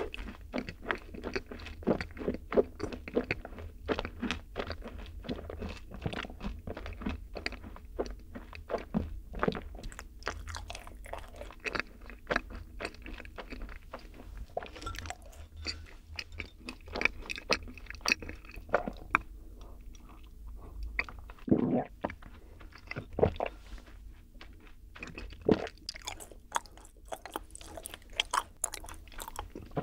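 Close-miked chewing of yakgwa, Korean fried honey cookies: a dense run of quick, crunchy, sticky clicks from the mouth, with a few louder crunches later on.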